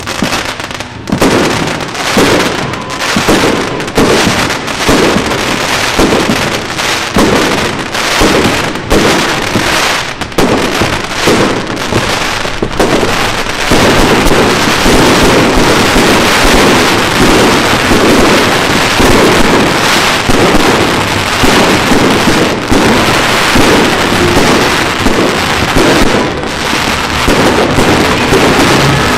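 Aerial fireworks display: shells bursting in a quick run of bangs, about two a second, that thickens about halfway through into a continuous barrage.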